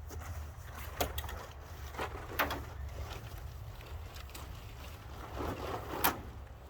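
Mercedes-Benz 300D diesel engine running on a cold start, a steady low rumble. Three sharp clicks sound over it, about one, two and a half and six seconds in.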